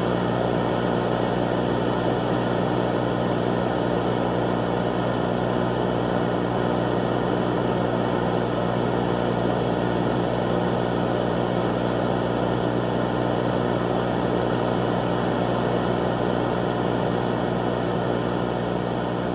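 A loud, steady droning hum that holds unchanged, easing off slightly near the end.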